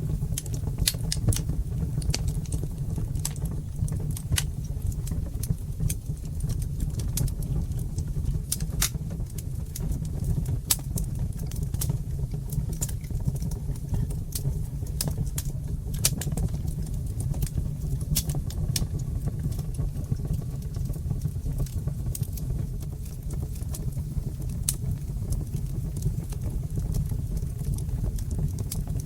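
Wood fire crackling in a fireplace: frequent irregular sharp snaps and pops over a steady low rumble.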